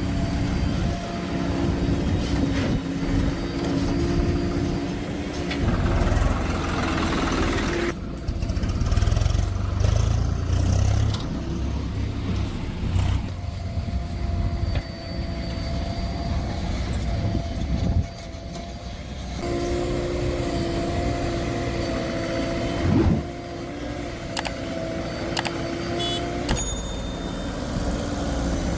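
Heavy diesel machinery working while soil is loaded: a JCB backhoe loader and a tractor running steadily. A steady whine drops out for about ten seconds in the middle, while the low rumble swells, and returns near the end.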